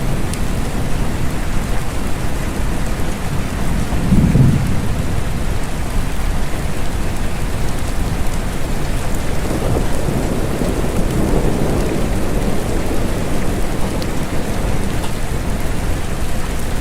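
Steady rain with low rolling thunder: one rumble swells about four seconds in and a longer one around ten to twelve seconds.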